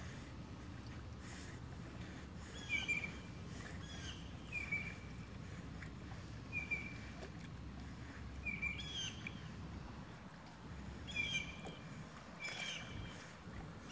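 A bird calling over and over: short high chirps with a quick downward slur, repeating every one to two seconds over a low steady outdoor rumble.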